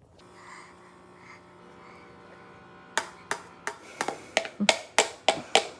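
A run of short, sharp taps or slaps starting about three seconds in, coming about three a second and getting quicker and louder, over a faint steady hum.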